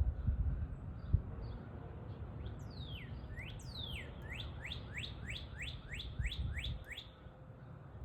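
A songbird singing a run of about ten clear notes, each sliding down in pitch, repeated at an even pace. Fainter high chirps come before it, and there is a low rumble and one sharp click about a second in.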